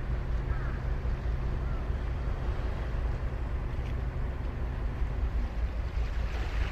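Ocean surf washing on a sandy beach, a steady rush of breaking waves with a low steady hum beneath it for the first couple of seconds. A few faint bird calls sound in the first two seconds.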